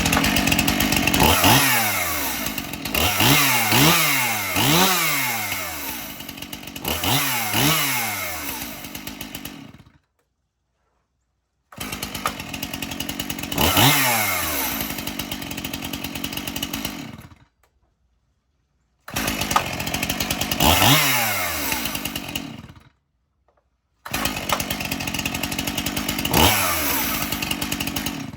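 Gas chainsaw running and being revved, its pitch repeatedly climbing and dropping back with each throttle blip, in four stretches broken by short silent gaps.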